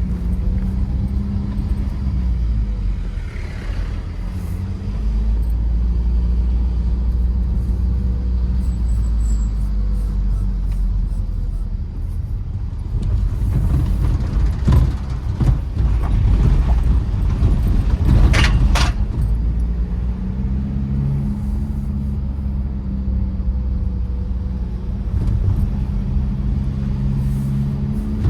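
Tata Safari Storme SUV's diesel engine running under a heavy low road rumble, its note rising and falling as the driver works the throttle and gears. Midway there is a short run of knocks and rattles, the sharpest about two-thirds of the way through.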